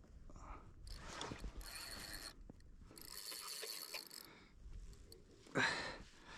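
Fishing reel working in two bursts of mechanical clicking and whirring while a heavy skipjack tuna is played on light tackle, the reel under load. A short, louder burst of noise comes near the end.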